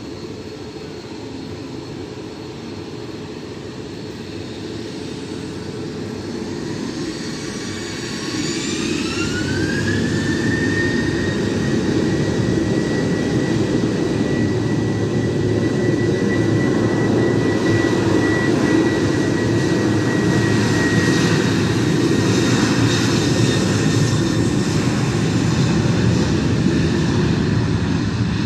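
Boeing 737-800's CFM56-7B turbofan jet engines spooling up to takeoff thrust: a steady low rumble, joined about eight seconds in by a fan whine that rises in pitch and then holds steady as the sound grows louder.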